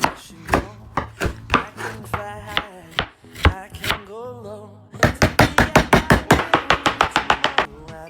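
Kitchen knife chopping food on a cutting board: spaced chops, about two or three a second, then about five seconds in a fast run of rapid chopping that stops just before the end.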